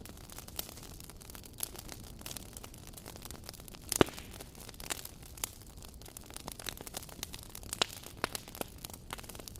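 Burning wood fire crackling, with irregular small snaps and pops over a low hiss and one louder pop about four seconds in.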